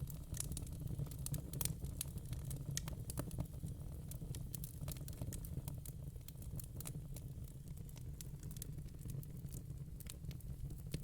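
Fire crackling: irregular sharp pops and snaps over a low, steady rumble, thicker in the first few seconds and again near the end.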